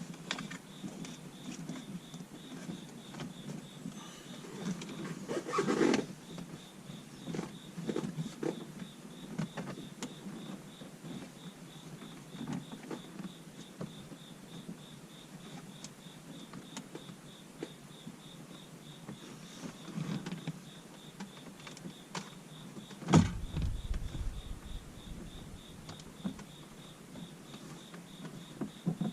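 Hands working a dash-cam power wire into a car's plastic interior trim: rustling, clicks and small knocks as panels are pried and the wire is pushed in. There is a louder thump about 23 seconds in, over a faint high tone that pulses evenly.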